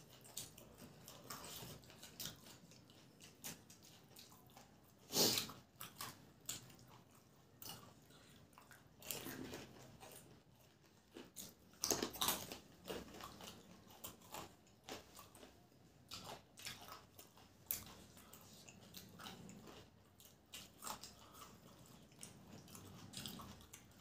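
Two people chewing and biting into fried potato samosas, with close, wet chewing and irregular crisp crunches. The loudest crunches come about five seconds in and again around twelve seconds.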